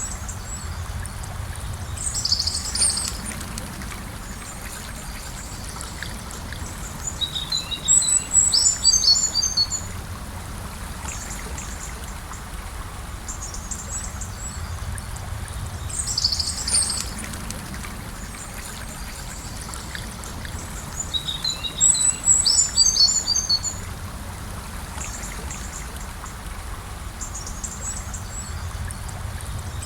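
Gentle river flowing steadily, with birds singing over it. A short high call and a longer burst of chirps come twice each, about fourteen seconds apart.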